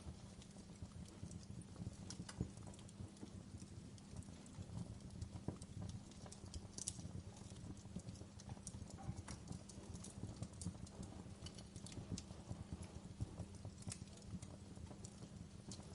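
Wood fire burning in a fireplace: a low steady rumble of the flames with frequent irregular crackles and pops.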